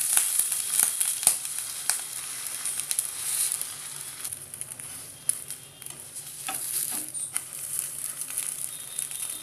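Bread uttapam frying in oil in a nonstick pan with a steady sizzle that eases off somewhat about halfway. A few sharp taps come from the plastic slotted spatula against the pan as the uttapam is turned.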